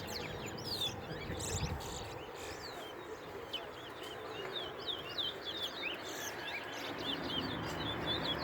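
Caged songbirds singing in a song race: a continuous string of short, high chirping notes, many overlapping, over a steady background hiss.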